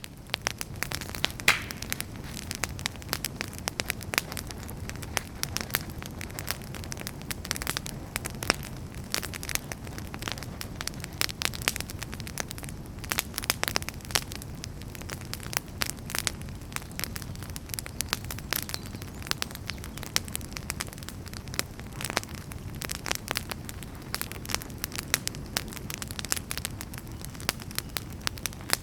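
Wood fire crackling in a fireplace: dense, irregular sharp pops and snaps over a steady low rumble of burning flames.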